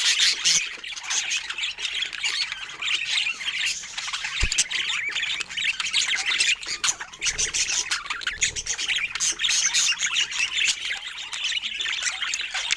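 A flock of budgerigars chattering continuously, a busy mix of quick chirps, warbles and squawks, with a brief low thump about four and a half seconds in.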